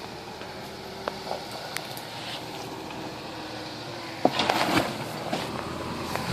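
Faint steady hum of a truck engine, with scattered sharp clicks. From about four seconds in comes a louder run of crunching and clattering, like tyres or feet moving over creek-bed rocks.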